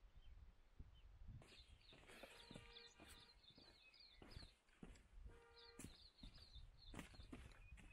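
Faint outdoor birdsong: a small bird giving quick runs of repeated high chirps, twice, each run joined by a lower call with a steady pitch, over a low wind rumble.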